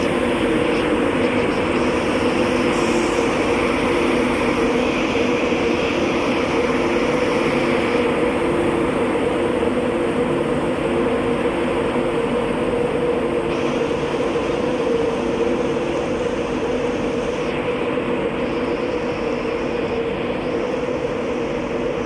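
Class 91 electric locomotive running with a steady hum of several held tones over a rushing noise, easing off slightly toward the end.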